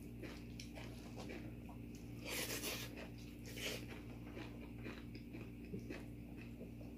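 A person chewing and crunching food in repeated short bites, one louder about two and a half seconds in, over a steady low hum.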